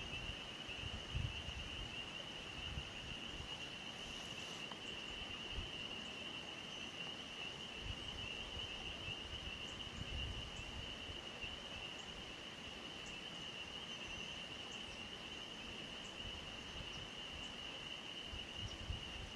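Quiet outdoor ambience: a steady, unbroken high-pitched chorus, with a few faint ticks and soft low bumps.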